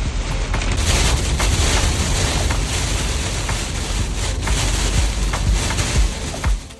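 Tropical-storm wind gusting hard against the microphone, a steady roar with heavy low buffeting.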